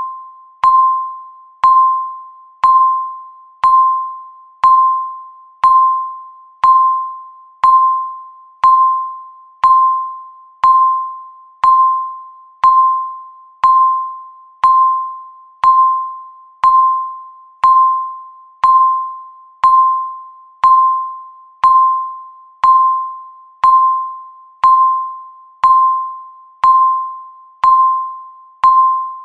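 Countdown timer's electronic tick: a bell-like tone struck about once a second, each with a sharp start and a short ringing fade.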